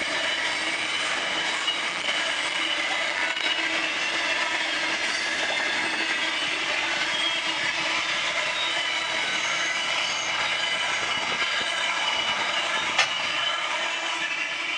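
Freight train wagons rolling past, the wheels squealing with several steady high tones over the rolling noise. There is one sharp click near the end.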